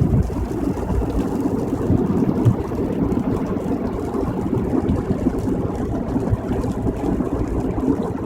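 Steady road noise inside a moving car's cabin on a wet highway: a continuous low rumble of tyres and engine.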